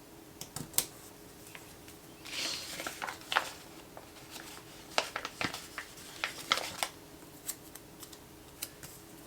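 Sticker sheets and paper being handled at a desk: a short rustle a little after two seconds and scattered sharp clicks and taps.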